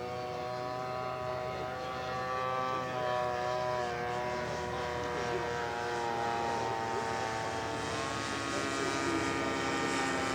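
Engine of a radio-controlled scale model airplane in flight, a steady propeller drone whose pitch sags a little midway and climbs again about eight seconds in.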